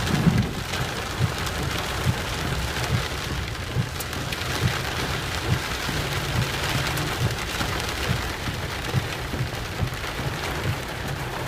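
Steady rain falling, with frequent short low thumps underneath.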